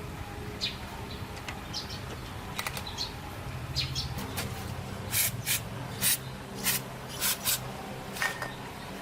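A steady low hum with faint high chirps. About halfway through, a run of about seven short, sharp, hissy strokes follows over roughly three seconds.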